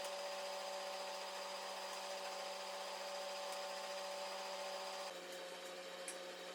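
Steady machine hum with a few fixed whining tones. The sound shifts slightly and drops a little in level about five seconds in.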